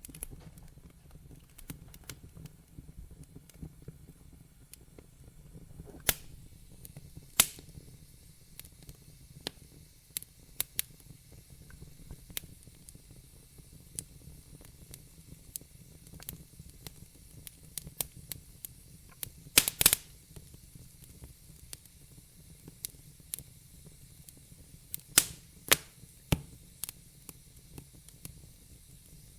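Wood fire in a fireplace crackling, with a constant scatter of small snaps and a few much louder pops, including a quick cluster about two-thirds of the way through. Under it runs a low steady rumble.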